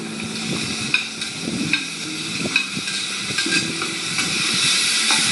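Chopped tomatoes and sliced onions sizzling as they fry in a steel kadai, with a ladle stirring and scraping against the pan, knocking a few times. The frying hiss grows louder near the end. Heard through a television's speaker.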